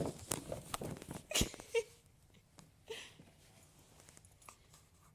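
A cat scratching and knocking at an empty cardboard 12-pack box: a quick flurry of scrapes and taps, the loudest knock about a second and a half in, then a few light taps.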